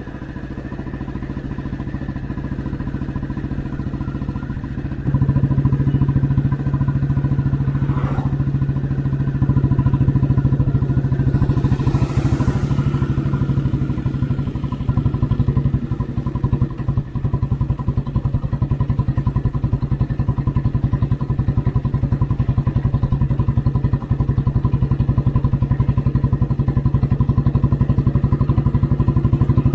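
Old Royal Enfield Bullet Standard 350's single-cylinder engine running steadily under way, its exhaust beat even and unbroken, getting louder about five seconds in.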